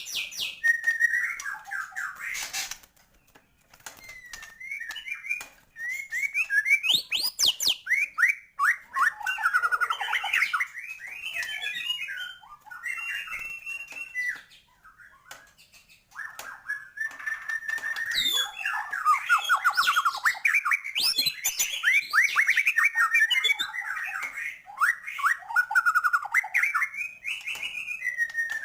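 White-rumped shama singing a long, varied song of rapid whistled phrases and trills, its repertoire packed with mimicked calls of other birds. The song pauses briefly about three seconds in and again around the middle.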